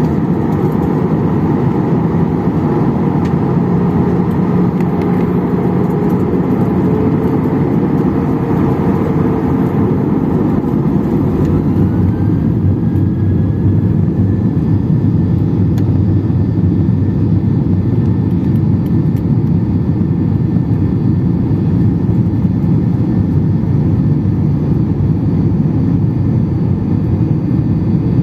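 Boeing 737-800's CFM56-7B turbofan engines heard from inside the cabin, a steady loud roar with heavy rumble. About twelve seconds in, a whine starts rising in pitch as the engines spool up to takeoff thrust.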